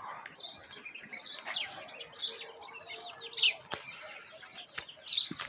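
Birds chirping over and over in short, falling chirps, with a couple of sharp clicks.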